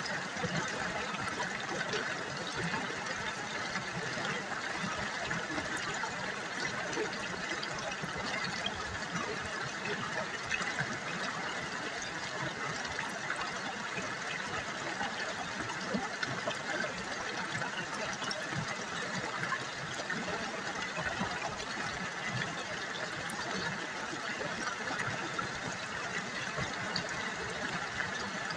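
River water babbling and trickling over stones, a steady splashing with many small drips.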